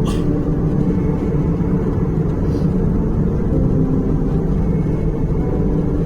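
Steady cabin rumble of an Airbus A320 in cruise: a continuous low roar of engine and airflow noise inside the cabin.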